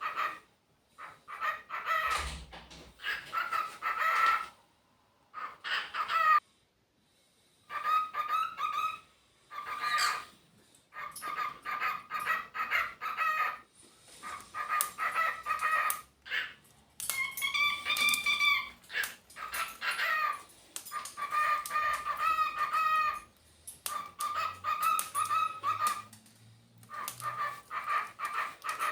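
Cockatiels chattering and whistling in repeated bouts of one to two seconds with short pauses, including a clearer whistled phrase about two-thirds of the way through.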